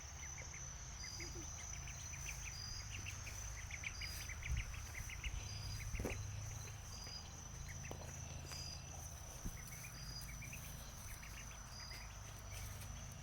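Insects calling: a cricket chirping about once a second over a steady high trill, with runs of quick ticks from other insects.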